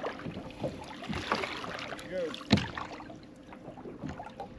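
Scattered knocks and clatter on a fishing boat over wind and water noise. A single sharp knock about two and a half seconds in is the loudest sound.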